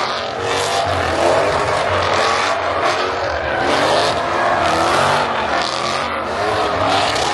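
Car engines revving hard with tyres squealing and sliding, as in a burnout or drift in the pit, the squeal wavering up and down in pitch throughout.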